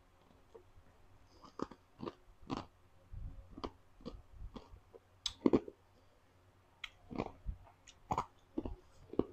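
A person chewing crisp raw fruit: irregular crunches and wet mouth clicks, loudest about halfway through.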